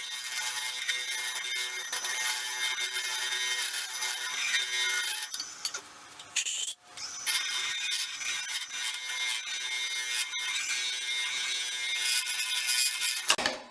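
Wood lathe running with a tool working a spinning blank of sticks cast in epoxy resin: a steady hiss over the machine's hum, which breaks off for about a second near the middle and then resumes.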